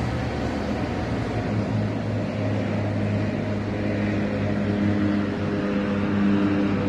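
Steady engine drone: a constant low hum with a few held pitched tones over a continuous hiss, growing a little stronger toward the end.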